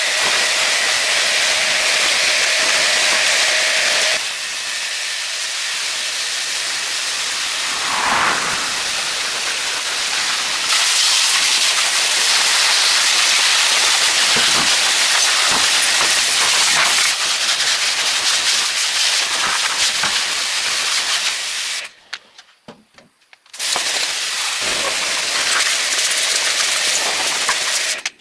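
Loud steady hiss, with a steady whine underneath for the first four seconds; it stops for about a second and a half near the end, then starts again.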